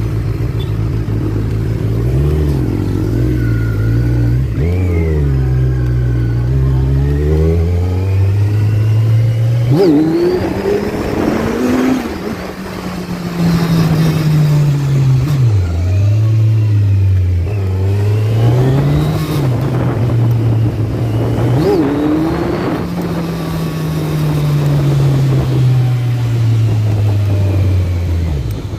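A Kawasaki Z1000's inline-four engine on its stock exhaust, heard from the saddle while riding. The engine note climbs and drops back again and again as the bike accelerates and eases off.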